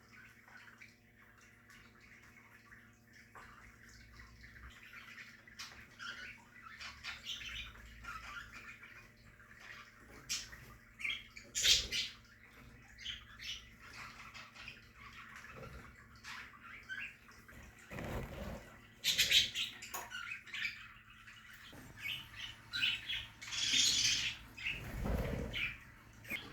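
Budgerigars chirping and chattering in a colony aviary, with occasional flurries of wing flapping. The chirping is sparse at first and grows busier from about ten seconds in.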